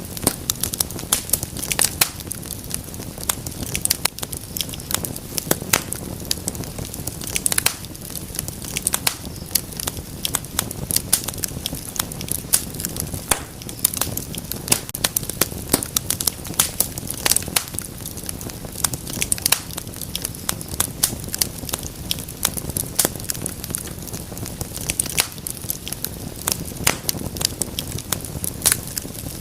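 Wood fire crackling, with frequent sharp pops and snaps over a steady low rumble of burning.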